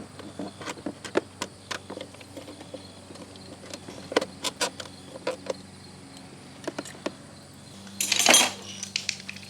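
Hands working a plastic vacuum switching valve off its mounting bracket: scattered small clicks and knocks of plastic and metal, with a louder scrape about eight seconds in.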